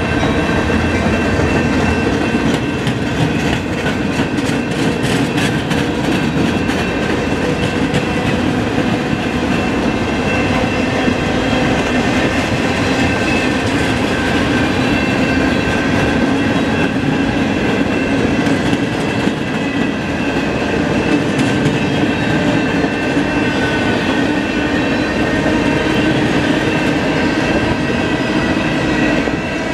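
Freight cars (box cars, tank cars and centerbeam flats) rolling past on steel wheels, a loud steady rumble with clickety-clack over the rail joints. A run of rapid clicks comes in the first several seconds, and thin high ringing tones from the wheels run over the rumble.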